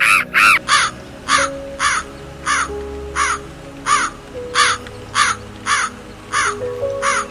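An animal calling over and over in an even series, about a dozen short rising-and-falling calls, roughly one every two-thirds of a second, over faint held background music notes.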